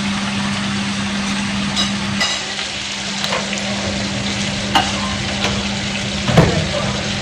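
Salmon frying in a pan, a steady sizzle, with a few short clinks and knocks of a utensil or pan, the loudest near the end. A low steady hum stops about two seconds in.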